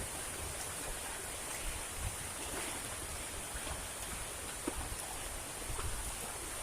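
Heavy rain falling steadily, with small drops ticking here and there.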